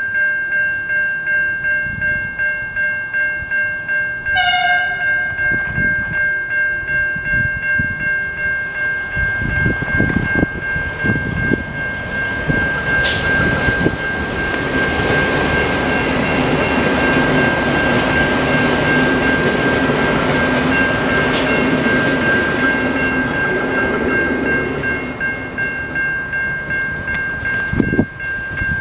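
Level crossing warning bell ringing in steady quick pulses. About four seconds in a train sounds a short horn toot. A V/Line VLocity diesel railcar set then passes with loud engine and wheel rumble, and the bell cuts off near the end.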